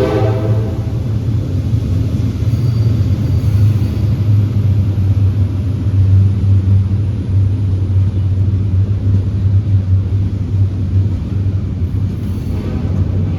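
Freight train rolling past with a steady, loud low rumble. A locomotive horn blast trails off right at the start, and the horn sounds faintly again near the end.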